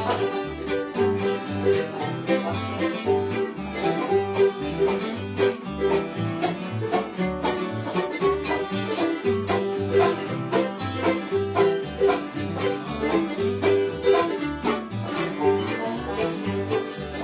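Bluegrass instrumental break between sung verses: picked string instruments, led by banjo over guitar, with a steady alternating bass note underneath.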